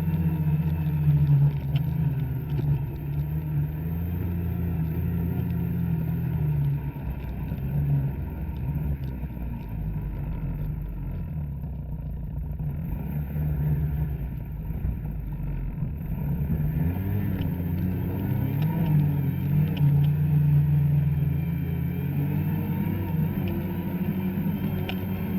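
Two-stroke snowmobile engine running under throttle in deep snow, its pitch rising and falling. It eases off briefly about halfway through, then picks up again.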